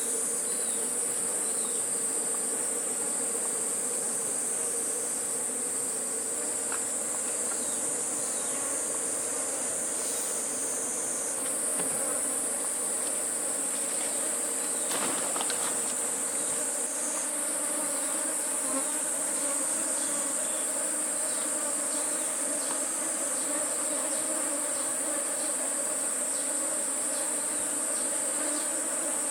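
Steady high-pitched drone of forest insects, with a lower buzzing hum of honeybees around a wild hive.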